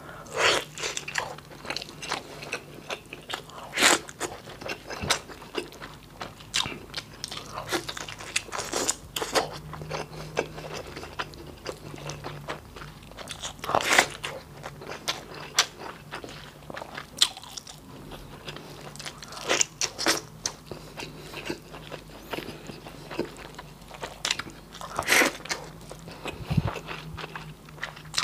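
Close-miked eating sounds: a man biting into and chewing boiled beef from nilagang baka, then eating rice by hand, with irregular mouth clicks and smacks, a few louder ones standing out.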